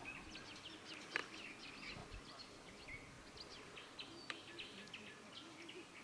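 Small birds chirping and trilling at dusk by a pond: many short, high chirps from several birds. A sharp click about a second in and another past four seconds.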